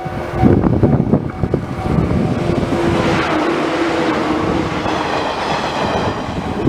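Train passing on the line, its wheels knocking over the rail joints at first, then a steady run with a faint whine that drops slightly in pitch partway through.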